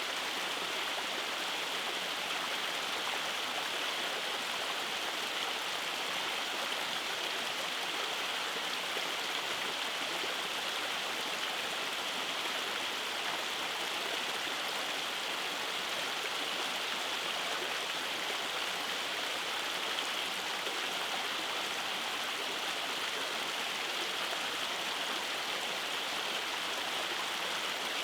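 Rainforest stream running over rock cascades: a steady, unbroken hiss of rushing water.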